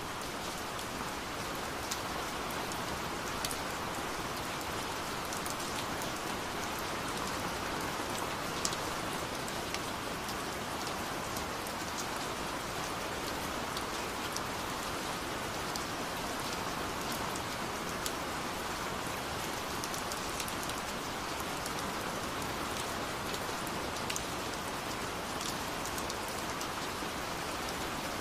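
Steady rain from a rain-sounds ambience track: an even, unbroken hiss with scattered sharper drop ticks.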